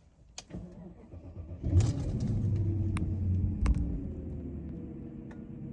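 2003 BMW 540i's 4.4-litre V8 cold-starting: a brief crank of the starter, then it catches about a second and a half in with a flare of revs and settles into a steady fast cold idle, easing down a little near the end.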